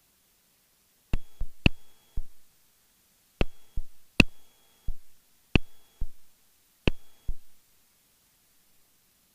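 About a dozen sharp electronic clicks in the aircraft's headset audio, falling in rough pairs over some six seconds, each with a brief high tone and a short ringing tail.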